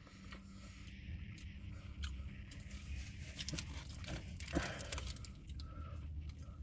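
A person chewing a mouthful of chicken sandwich, with scattered small wet clicks and crunches; the loudest comes about four and a half seconds in.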